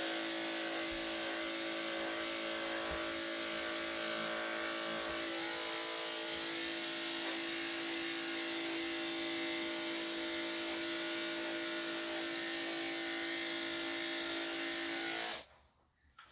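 Electric dog grooming clippers with a #7 blade running at a steady hum while shaving the dog's coat, then switched off about fifteen seconds in.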